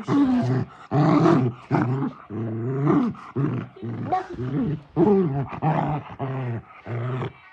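Dog growling in a string of short, low growls, more than one a second, typical of a dog play-growling while tearing at a stuffed toy.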